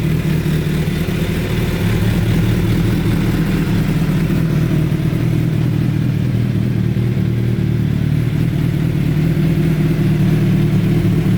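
Suzuki B-King's 1340 cc inline-four engine idling steadily.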